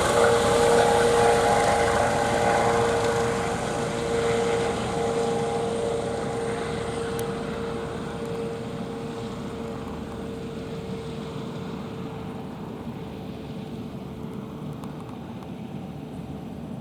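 Eurocopter EC135 T2+ twin-engine helicopter flying away after takeoff, its steady tone and rotor noise fading steadily.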